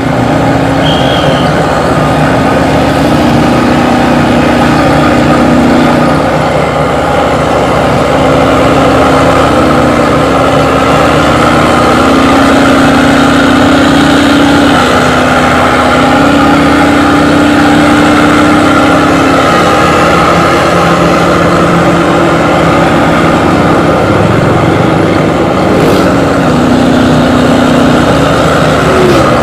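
Intercity bus engine running through a loud aftermarket 'suos' exhaust, a continuous drone whose pitch shifts up and down in steps every few seconds.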